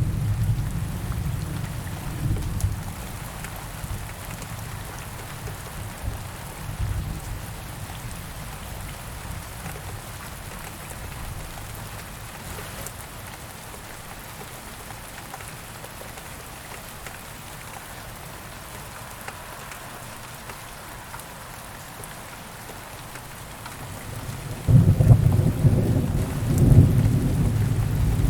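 Thunderstorm: steady rain falling with rolling thunder. A deep rumble fades away over the first few seconds, and a second loud, rolling rumble breaks in near the end.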